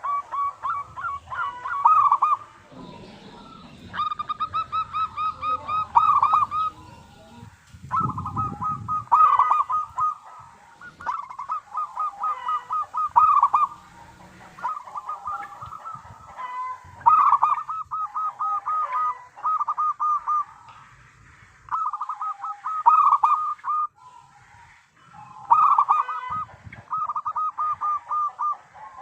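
Zebra dove (perkutut) cooing: phrases of rapid staccato notes, each lasting a second or two, repeated over and over with short pauses. There is a brief low rumble about eight seconds in.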